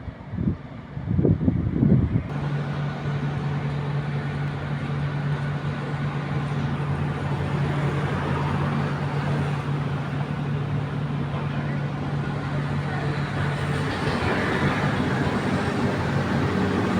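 A heavy machine's engine running steadily, a low hum under a wide rumbling noise, with a few loud low knocks in the first two seconds. The hum drops out about three quarters of the way through while the rumble carries on and grows a little louder.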